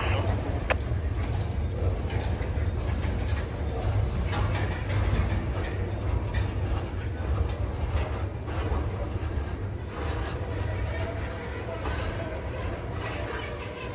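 Freight cars carrying waste containers rolling past on the track, a steady low rumble with faint high wheel squeal coming and going.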